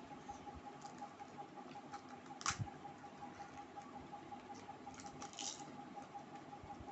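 Close-up mouth sounds of eating panipuri: small wet clicks and crunches, with one sharp crunch about two and a half seconds in and another cluster a little after five seconds. A faint steady hum sits underneath.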